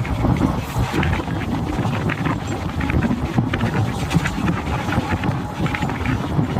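Indian Railways train running at speed: a steady low rumble with irregular rattles and clatter, and wind buffeting the microphone.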